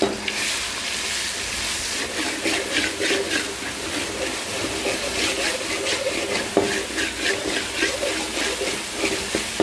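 Ginger-garlic paste and fennel seeds frying in hot oil in a metal pan, sizzling with many short crackles, while a spoon stirs through them.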